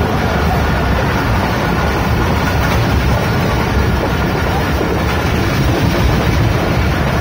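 Passenger train running, heard from inside the coach: a steady rumble of wheels and carriage, with air rushing in through the open window.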